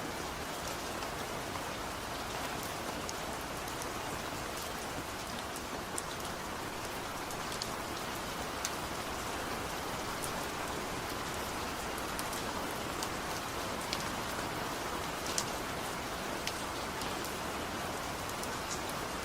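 Steady light rain falling, an even hiss with scattered sharp drop ticks, no thunder.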